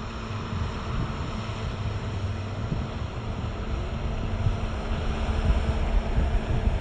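Wind buffeting the microphone of a GoPro on a moving bicycle: a steady, gusty low rumble.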